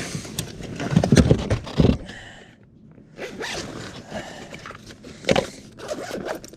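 A zipper being pulled and gear rummaged through to get a knife out, with irregular scrapes and rustles, a few knocks in the first two seconds and a sharp click near the end.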